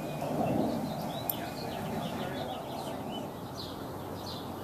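Small birds chirping over and over, short quick calls that rise and fall, over a steady low outdoor rumble.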